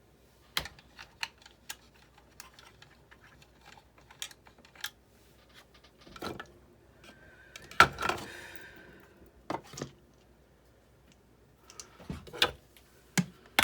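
Parts and screws of a Sizzix Big Shot die-cutting machine being handled and fitted during reassembly: scattered sharp clicks and taps, with a louder clatter about eight seconds in and another near the end.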